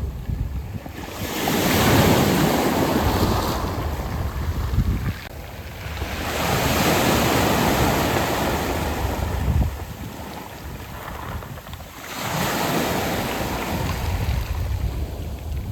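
Waves surging onto a beach of smooth round pebbles, three swells about five to six seconds apart, each rising and then draining back.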